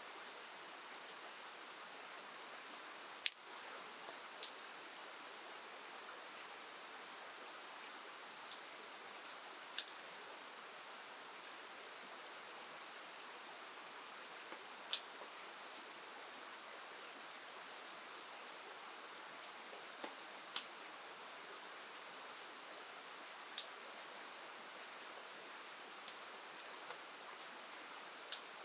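Faint, steady hiss of rain and a flowing river, broken by about a dozen short, sharp pops at irregular intervals, the loudest about three seconds in.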